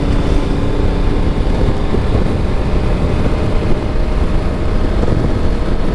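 Motorcycle engine running steadily under way, mixed with wind noise rushing over the microphone.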